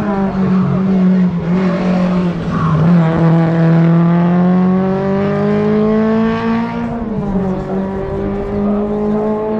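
Racing car engine at full throttle, its pitch climbing steadily through one gear, dropping sharply at a gear change about seven seconds in, then climbing again.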